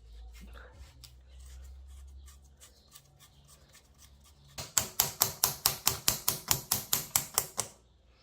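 Fishing reel's ratchet clicking in a quick, even series, about six clicks a second for some three seconds, after a few seconds of quiet handling over a low hum.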